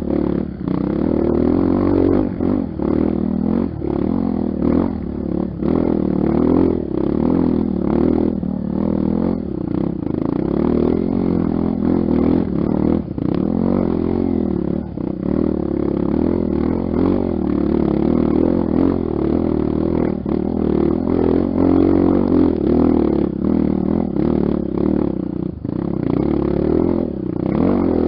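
Honda XR 250 Tornado's single-cylinder four-stroke engine running with the throttle rising and falling, over a steady clatter and many short knocks from the bike on a rough dirt trail.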